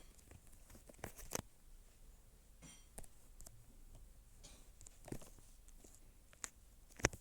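Faint, scattered clicks and taps, about half a dozen, the sharpest just before the end.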